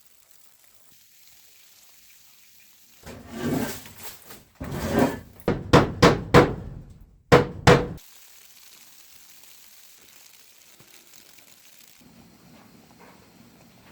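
A run of heavy knocks or thuds, a couple of longer dull ones followed by about five sharp hits with a short ring, over faint steady hiss.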